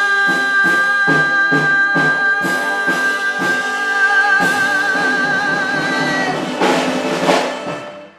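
Big band playing the closing bars of a song, with a female singer holding a long final note with vibrato over short accented band hits and drums. The held note ends about six seconds in, followed by a cymbal crash and a final chord before the music stops.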